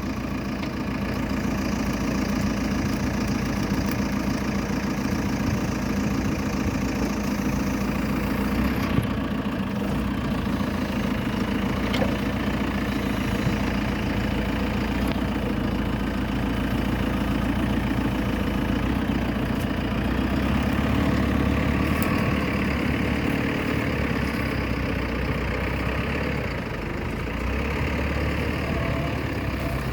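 JCB 3CX backhoe loader's diesel engine running steadily, its note shifting about nine seconds in and growing heavier for a few seconds past the middle.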